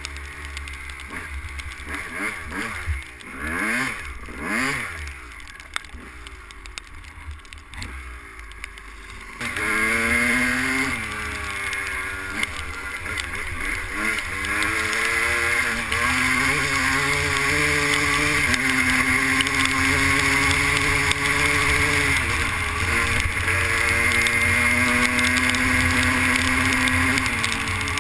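Two-stroke 250 motocross bike engine riding off-road, with low wind rumble on the microphone. For the first nine seconds it runs quieter, its pitch sweeping up and down twice a few seconds in; then it opens up loudly, revving up and dropping back repeatedly as it shifts through the gears.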